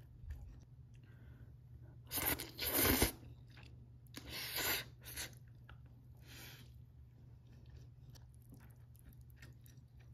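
A person chewing a bite of Spam musubi (rice, Spam and egg wrapped in seaweed) close to the microphone: two loud bouts of chewing about two and four seconds in, then a short softer one.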